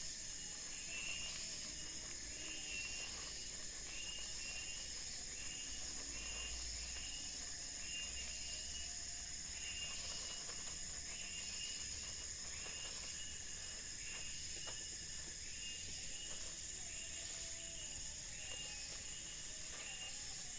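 Forest insects: a steady high-pitched drone with a short chirp repeating a little more than once a second, and a faint higher whistle joining near the end.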